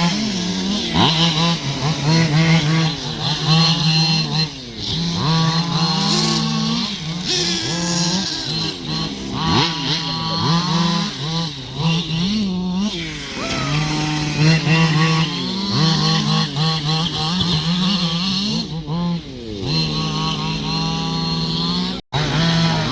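Several radio-controlled cars' motors whining and revving up and down as they run on the track, their pitches rising and falling over one another. The sound cuts out briefly near the end.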